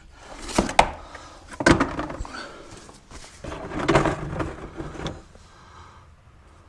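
Clunks and rustling as an overflowing oil drain pan is handled and pulled out from under the machine, with a few sharp knocks in the first two seconds and a longer noisy stretch about four seconds in, dying away after about five seconds.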